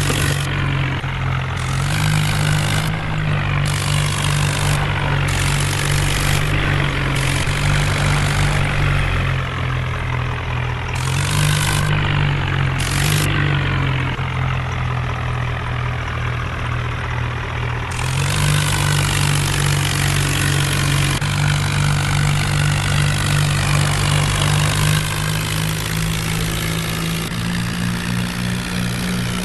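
Tractor diesel engine running under throttle, its pitch holding steady and then shifting up or down in steps several times.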